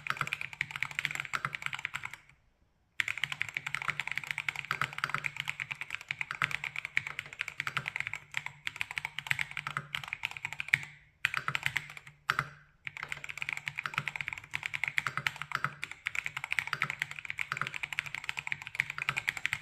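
Monsgeek M5 mechanical keyboard being typed on fast, in a dense run of key clicks, with short pauses about two seconds in and again around the middle.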